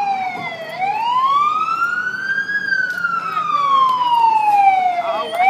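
Fire engine siren wailing, its pitch sliding slowly down and back up in long sweeps. It reaches its lowest point about a second in and again near the end.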